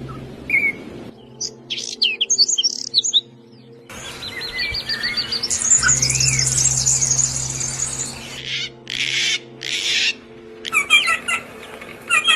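Songbirds chirping and calling in a string of short, abruptly cut passages: quick twittering notes, a rapid high trill in the middle, and clusters of sharp repeated chirps near the end.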